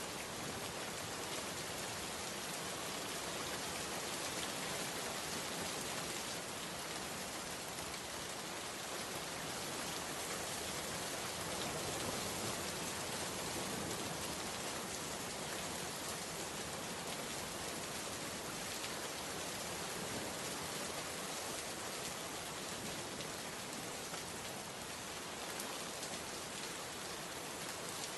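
Steady rain falling, an even hiss of many drops with no pauses or single loud strikes.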